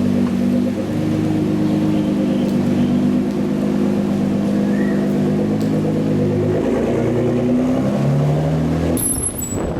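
Supercar engines running at fairly steady low revs, their exhaust note holding and then stepping up and down in pitch several times as the revs change, with an abrupt change near the end.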